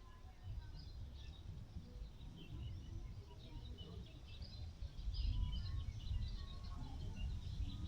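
Small birds chirping over a low, gusting rumble of wind on the microphone, the wind strongest from about five seconds in.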